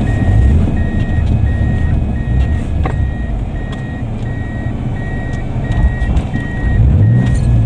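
A vehicle's electronic warning beeper sounding in even short beeps, a little faster than one a second, over the low rumble of a running engine.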